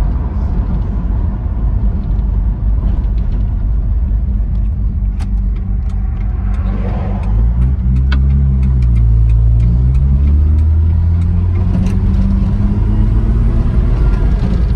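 1977 Mazda REPU's 13B rotary engine and road noise while driving: a steady low rumble, with the engine's hum growing louder and clearer about halfway through, its pitch dipping and then climbing as the truck changes speed.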